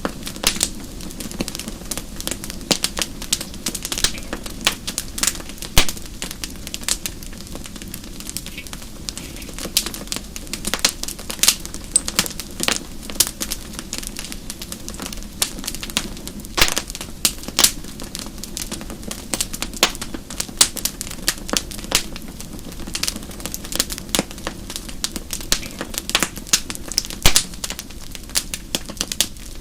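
Wood logs burning in a fireplace, crackling and popping in many irregular sharp snaps over a steady low rumble.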